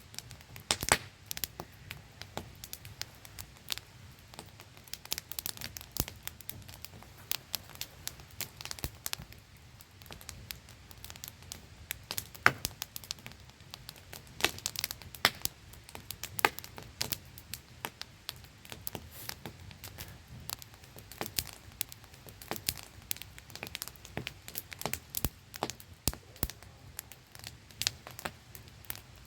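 Wood campfire crackling and popping, with sharp snaps at irregular intervals over the steady hiss of a small waterfall.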